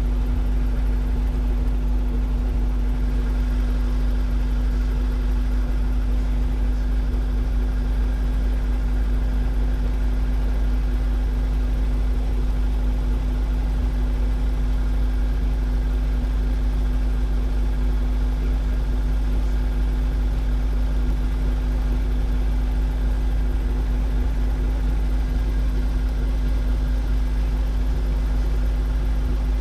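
Robinson R22 helicopter's piston engine and rotor running at a steady speed, a constant low drone with a steady hum above it.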